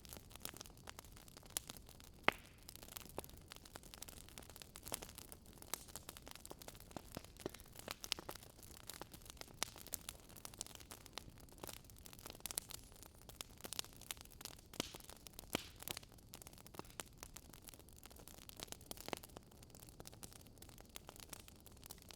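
Campfire crackling: wood burning with irregular sharp pops and snaps, several a second, over a soft steady hiss.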